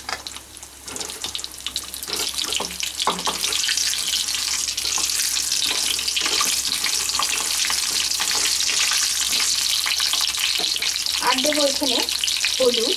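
Peeled pointed gourds frying in hot mustard oil in a non-stick kadai. The sizzle builds over the first few seconds and then holds steady, with a few clicks of a spatula against the pan at the start.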